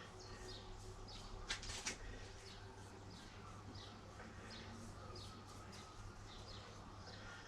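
Birds chirping: many short, high, falling notes repeated throughout. Two sharp knocks come about one and a half and two seconds in, over a faint steady low hum.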